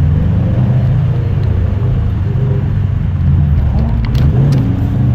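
Car engines running at low revs: a steady low rumble whose pitch shifts slightly now and then, as with cars idling and creeping along.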